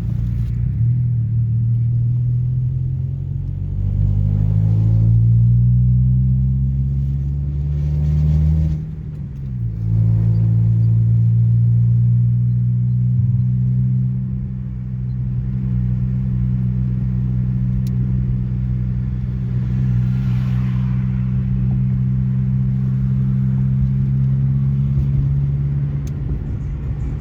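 Chevrolet Montana pickup's engine running on the road, a steady low drone. It rises in pitch as it accelerates for several seconds, then drops sharply about nine seconds in, as at a gear change, and holds steady after that.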